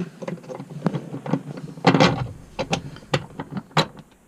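Metal parts of a Whale Gusher 10 bilge pump clicking and knocking as a bolt with washers is worked through its sleeve and fitted back in. The clicks are irregular, densest about two seconds in, with a sharp knock near the end.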